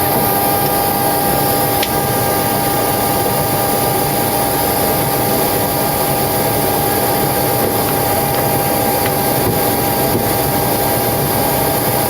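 Boeing 727-200's three Pratt & Whitney JT8D turbofans idling just after start, heard inside the cockpit as a steady loud rush with a constant whine.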